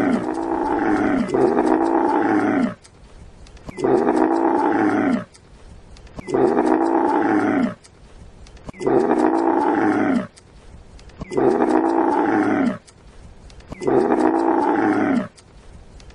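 Camel calling: a series of about seven similar loud calls, each just over a second long, repeated every two and a half seconds.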